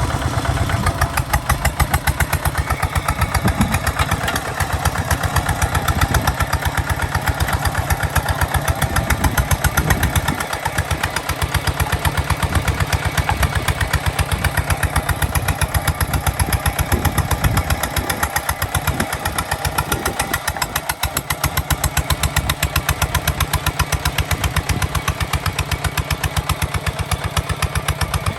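Kubota ZT 155 DI single-cylinder diesel engine running with a rapid, steady firing beat.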